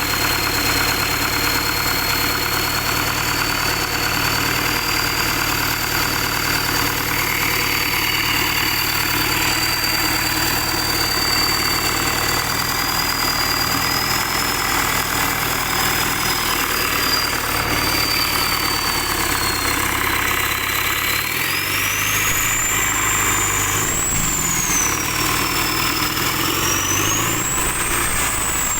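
Isuzu dump truck diesel engine running at idle, with a steady high whine over the hum. In the last third the engine is revved a couple of times, and the whine rises and falls with it.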